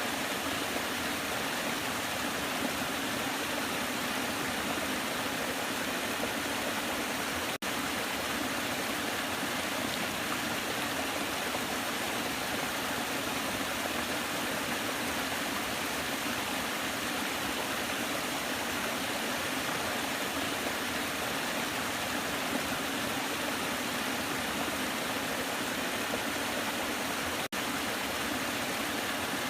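Waterfall: a steady, even rush of falling water, cut by two momentary dropouts, about eight seconds in and near the end.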